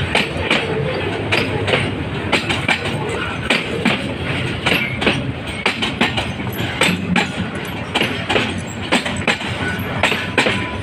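Freight train of container-laden flat wagons rolling past close by: a steady rumble of steel wheels on rails, broken by frequent, irregular sharp clacks as the wheels cross rail joints.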